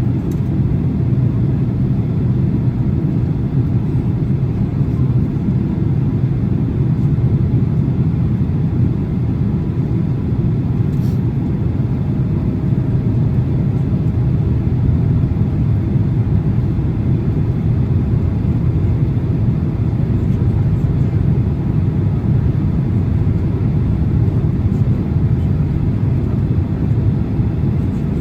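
Steady low cabin rumble of a Boeing 767-300 on approach: engine and airflow noise heard from inside the passenger cabin.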